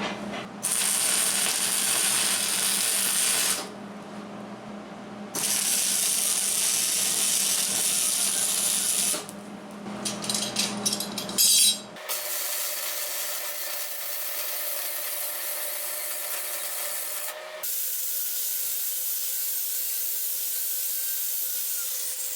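Stick (arc) welder burning a rod on steel angle iron and flat bar, a steady crackling hiss laid down in runs of a few seconds with short breaks between. In the second half the sound changes to a steadier, quieter noise with a faint hum.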